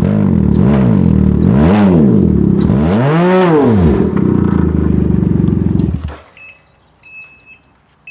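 Can-Am Ryker Rally's three-cylinder engine running through an RLS Twin Kaos exhaust with the baffles out, idling loudly and revved three times in quick blips, each rising and falling in pitch. The engine is shut off about six seconds in, and a few faint short beeps follow.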